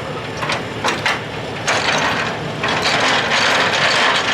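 A semi-trailer's landing gear being cranked by hand: a few ratcheting clicks from the crank gearbox, then a steady grinding rasp that gets louder about halfway through.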